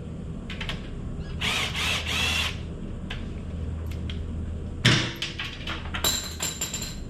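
Hand tools working on a motorcycle engine's clutch cover, with scraping and clicking. There is a sharp knock about five seconds in, then a brief metallic ringing near the end, over a steady low hum.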